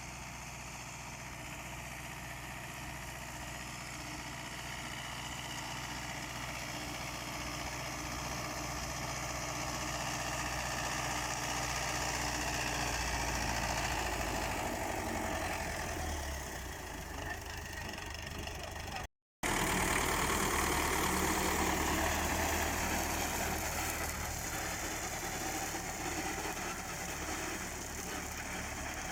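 MTZ-82 tractor's four-cylinder diesel engine running steadily under load while mowing with a KRN-2.1 rotary mower, growing louder over the first half. The sound cuts out completely for a split second a little past two-thirds of the way through, then the engine resumes, louder.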